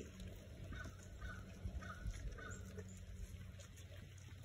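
A bird caws four times in quick succession, about half a second apart, over the faint clicking and crunching of goats chewing corn on the cob.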